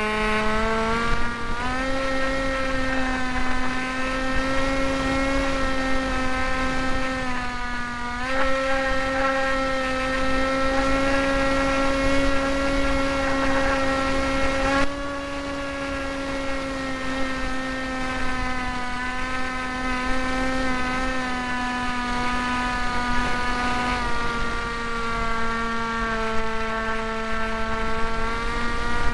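Electric motor and propeller of a Hawk Sky foam RC plane running with a steady, high-pitched whine. The pitch steps up about a second and a half in, dips and climbs again around eight seconds, and drops a little around fifteen and again around twenty-four seconds as the throttle changes. Wind rumbles underneath.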